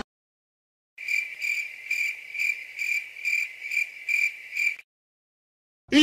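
Stock crickets sound effect: a cricket chirping in a steady rhythm, about two high-pitched chirps a second, starting about a second in and stopping suddenly near the end.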